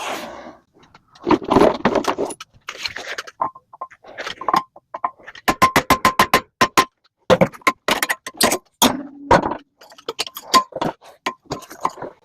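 Metal parts of a microwave magnetron clanking and ringing as they are knocked and pried apart, with a quick run of taps, about five a second, in the middle.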